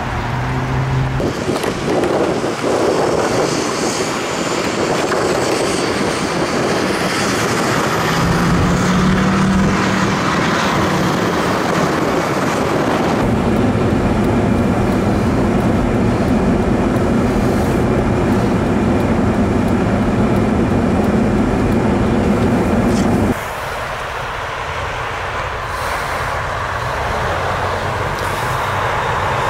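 Steady road traffic noise: vehicle engines and tyres on the road, with an engine hum. The sound changes abruptly about a second in, near the middle, and about three quarters of the way through, where clips are cut together.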